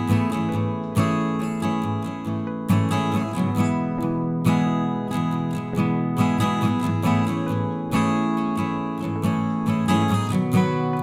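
Background music: acoustic guitar strumming chords in a steady, unhurried rhythm.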